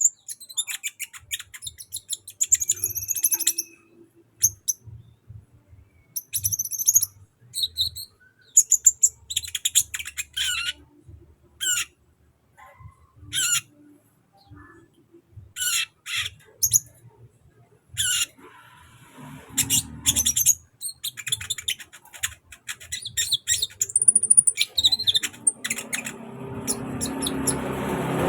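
A sunbird singing: rapid, sharp, high chirps and short twittering phrases with brief pauses between them. Near the end a rising noise builds beneath the calls.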